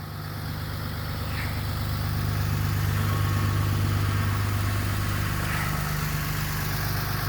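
2016 Ram 3500's Cummins 6.7-litre inline-six turbo diesel idling, a steady low drone that grows louder over the first few seconds, then holds even.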